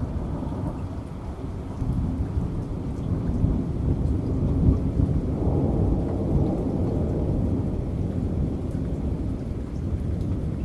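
Heavy rain with a long, low roll of thunder that swells about halfway through and slowly dies away, with faint scattered drops ticking over the top.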